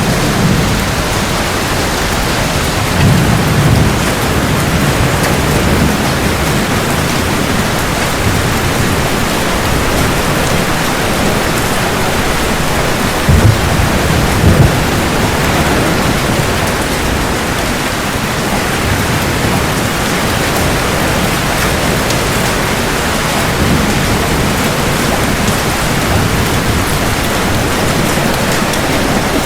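Heavy rain falling steadily, with low thunder rumbling about three seconds in and again, stronger, around thirteen to fifteen seconds in.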